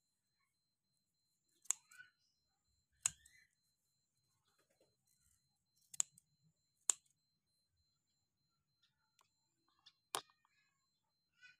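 About five sharp, separate clicks at irregular intervals, with a few faint short sounds at middle pitch after some of them.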